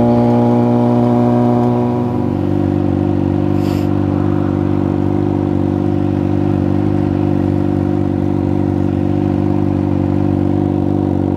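2006 Suzuki GSX-R600's inline-four engine running while riding; its note drops about two seconds in, then holds steady.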